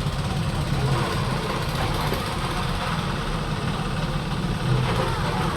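Fishing trawler's engine running steadily at idle.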